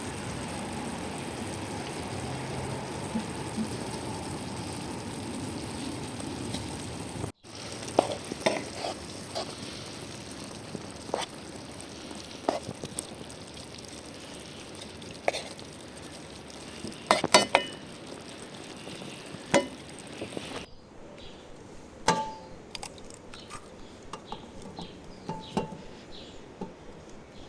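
Outdoor camp cooking: a steady sizzling hiss at first, then after a cut, scattered sharp clinks and taps of utensils against cookware, lighter and quieter after a second cut near the end.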